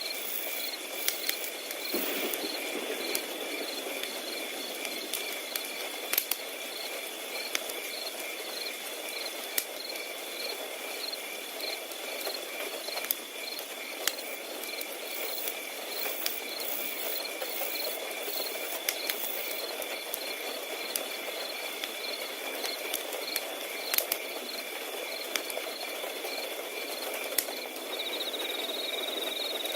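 Several crickets chirping constantly in fast, even pulses, with another cricket's higher trill joining near the end. Underneath, a wood fire crackles with scattered sharp pops.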